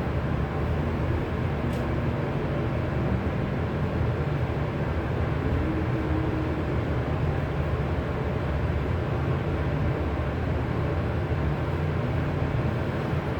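Steady low rumbling noise, even in level throughout.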